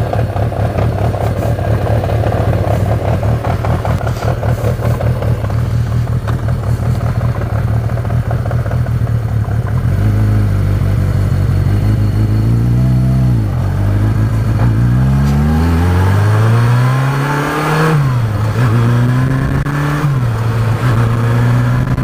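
1983 Yamaha XJ550 Maxim's four-cylinder engine running steadily at idle for about ten seconds. It then pulls away, with the engine note rising and dropping back several times as the bike accelerates up through the gears.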